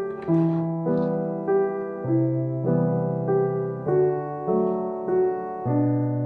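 Background music: a gentle piano piece, with notes and chords struck at an even pace.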